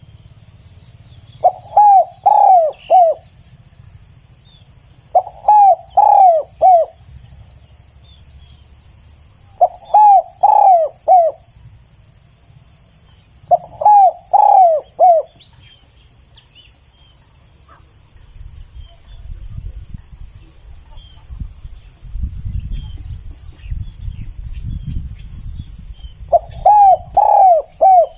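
Spotted dove cooing in phrases of three or four arched coos, one phrase about every four seconds. There are five phrases, with a long pause before the last. Insects chirp steadily in the background, and a low rumble comes up during the pause.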